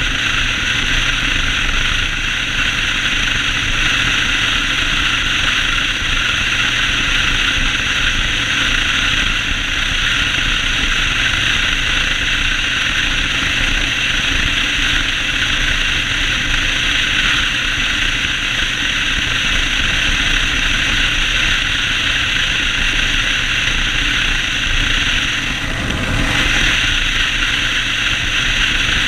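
Yamaha Road Star 1600 V-twin motorcycle running at a steady speed on a ride, its low engine rumble under a constant rush of wind and road noise, with a brief dip a few seconds before the end.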